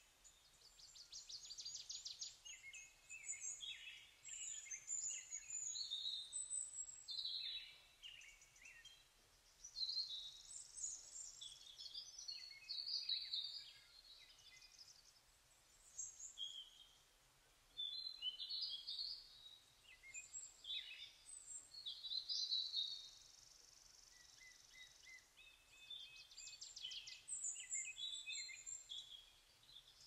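Several birds calling and singing at once, a busy mix of short chirps, whistles and rapid trills, with a steady high buzz for a few seconds past the middle.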